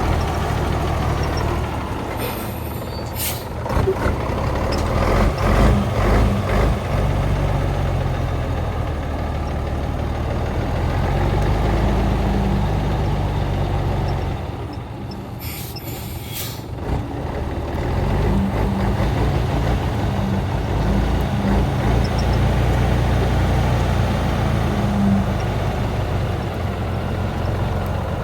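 Heavy truck engine running under varying load, with two short hisses of air brake release, one a few seconds in and one around the middle.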